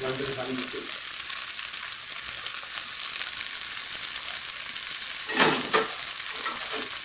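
Okra, potato and tomato bhaji sizzling steadily as it fries in a nonstick pan, with a brief louder sound about five seconds in.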